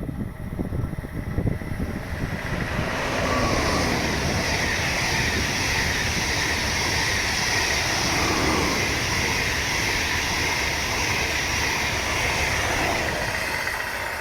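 A train passing through the station: wheel and rail noise swells in over the first few seconds and holds as a steady rush for about ten seconds, with wind buffeting the microphone before it arrives.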